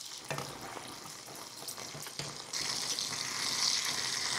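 A wooden spatula stirring and scraping a thick mutton liver roast in a pan. About two and a half seconds in, a louder steady sizzle of small anchovies frying in oil takes over.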